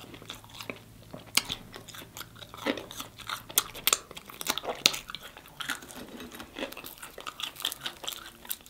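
Close-miked chewing of a mouthful of fried food, with frequent short crunches and wet mouth clicks.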